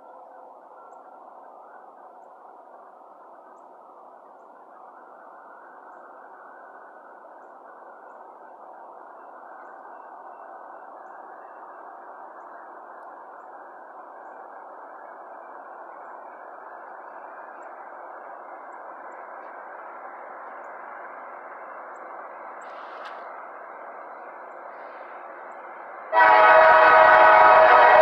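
An approaching freight train's rumble slowly growing louder, then, near the end, a locomotive air horn sounds suddenly and loudly, a chord of several steady notes.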